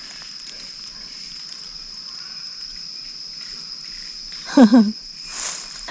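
Rainforest insects keeping up one steady high-pitched drone, with a brief voice sound near the end.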